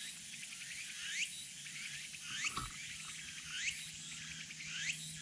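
A wild animal's high call, a short note sweeping upward, repeated about every second and a quarter over a steady high fizzing chorus.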